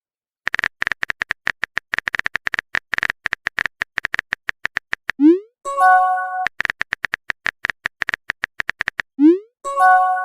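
Phone-keyboard typing sound effect: fast runs of short electronic clicks. Twice, a run ends with a quick rising whoosh and a short electronic chime, the message-sent notification. The second chime comes near the end.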